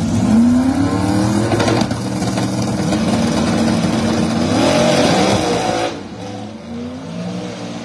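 Two drag-racing cars, one of them turbocharged, launching and pulling hard at full throttle down the strip. The engine pitch climbs, breaks at a gear change and climbs again, then the sound drops away suddenly about six seconds in.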